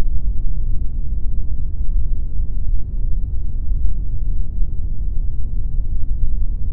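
Continuous pink noise: a steady, even rush weighted heavily toward the low end, heard as a deep rumble with little hiss above it.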